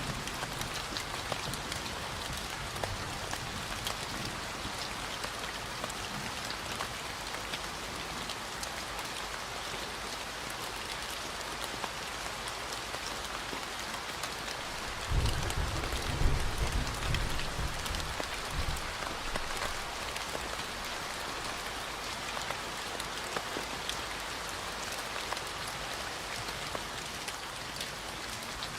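Steady rain falling, an even hiss dotted with fine drop ticks. About halfway through, a low rumble swells for a few seconds and is the loudest thing heard.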